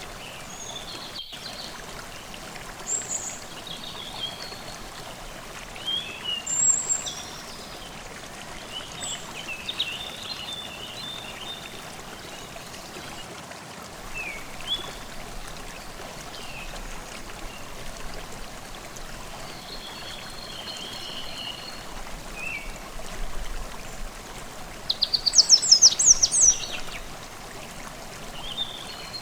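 A forest stream running steadily, with songbirds calling and singing over it in short scattered phrases. A louder, rapid bird trill comes in near the end.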